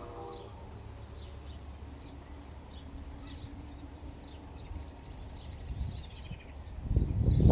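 Small birds chirping, with a rapid trill about five seconds in. A loud, irregular low rumble comes in near the end.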